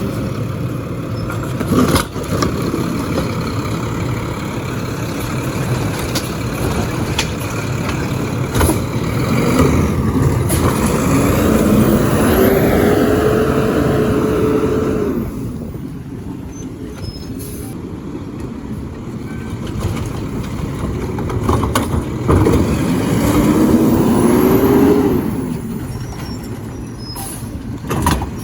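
Garbage truck working: its diesel engine runs steadily, with a rising whine about ten seconds in and again about twenty-two seconds in, and a few sharp clanks.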